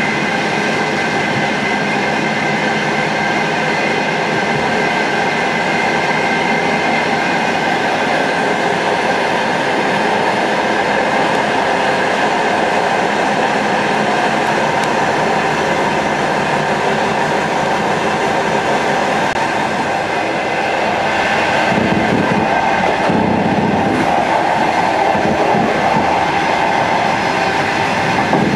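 Passenger train running at speed, heard from inside the carriage: a steady rumble of wheels on rail with a steady high whine. It grows a little louder and rougher about twenty seconds in.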